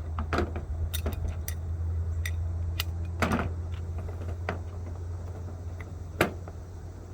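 Scattered metallic clinks and knocks as plumbing fittings and tools are handled and tightened, over a steady low hum.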